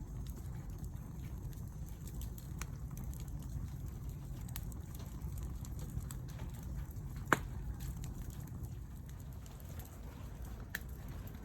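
Wood fire burning, with scattered small crackles and one sharp pop about seven seconds in, over a steady low rumble.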